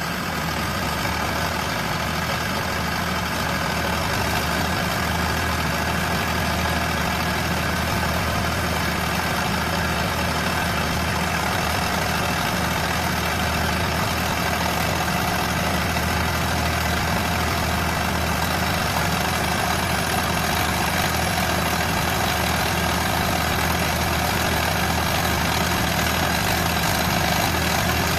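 Engine of a tractor-mounted hydraulic pole-hole digger running steadily while it drills.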